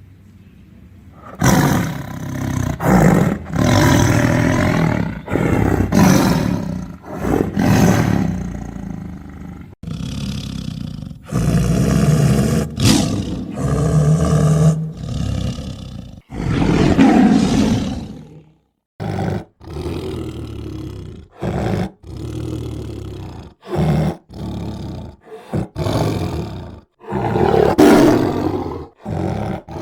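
Tiger roaring and growling over and over, starting about a second and a half in. The second half breaks into shorter roars with brief silences between them.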